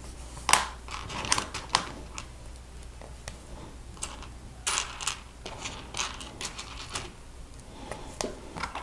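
Plastic Lego Technic pieces clicking and clattering as they are handled and friction pins are pressed into Technic beams: a string of irregular sharp clicks, some in quick clusters.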